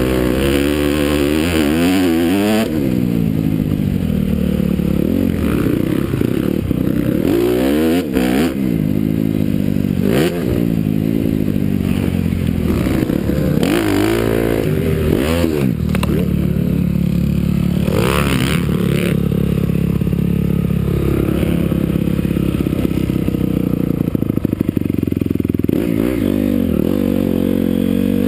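Honda CRF250R single-cylinder four-stroke motocross engine being ridden hard, its pitch climbing and dropping again and again every second or two, with a steadier held stretch past the middle.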